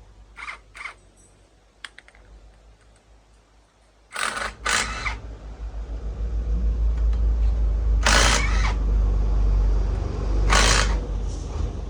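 A few light clicks, then about four seconds in a motor starts and runs with a low steady rumble. Several short, loud hissing bursts sound over it.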